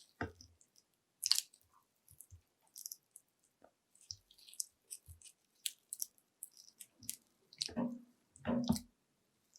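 Close-miked chewing of panko-breaded fried shrimp: scattered crisp crackles and wet mouth clicks, with two louder, longer chews about three-quarters of the way in.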